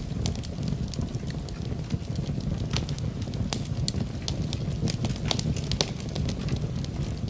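Wood fire in a fireplace crackling, with frequent sharp pops and snaps at irregular intervals over a steady low rumble of the burning logs.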